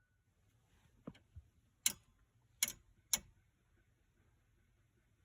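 A handful of short, sharp clicks, about five in two seconds, the three loudest near the middle.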